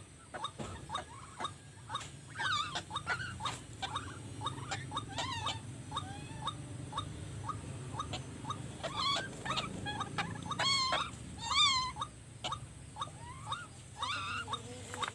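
White-breasted waterhens calling: a long run of short, pitched calls, some overlapping, with wavering trilled notes a little past the middle.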